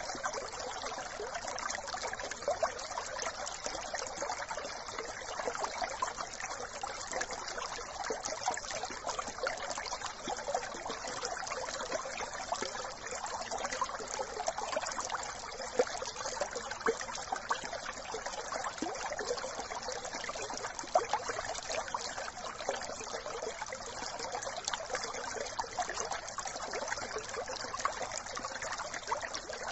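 A small brook trickling and babbling steadily over stones, a continuous splashy rush of water.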